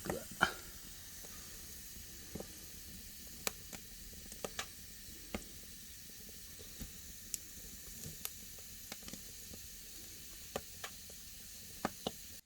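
Wood fire burning in a fireplace that heats an ondol floor: a steady hiss with sharp, irregular crackles and pops.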